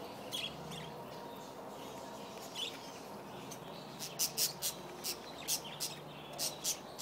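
Small parrots giving short, sharp, high chirps: a few scattered calls at first, then a quick run of them, two or three a second, over the last few seconds.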